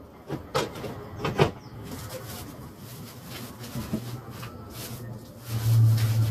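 Kitchen handling sounds: a few sharp knocks and clicks of things being set down or cupboards moved, then near the end a loud steady low hum starts, like an electric appliance switched on.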